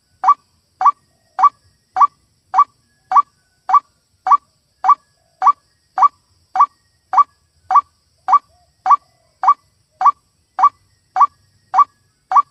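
White-breasted waterhen (ruak-ruak) call repeated over and over: short, evenly spaced calls, a little under two a second, as played from a lure recording.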